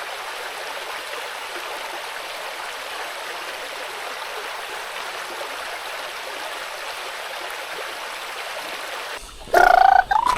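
Stream water flowing steadily over rocks. About nine seconds in, the water sound cuts off and a loud pitched sound that bends in pitch begins.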